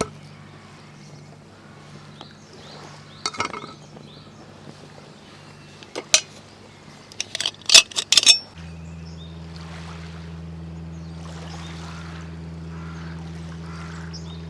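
Several sharp clinks and knocks of metal tableware and cookware being handled, one about three seconds in, one about six, and a quick cluster the loudest near eight seconds. Under them is a low steady hum that changes to a deeper, louder tone just past halfway.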